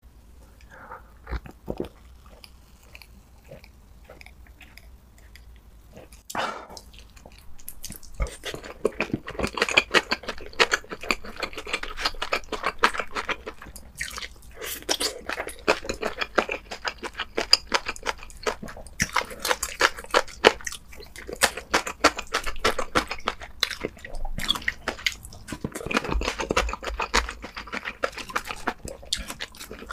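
Close-miked eating: a person chewing and crunching food in the mouth, a dense run of crackly mouth sounds. The first several seconds hold only a few sharp clicks before the chewing starts about eight seconds in.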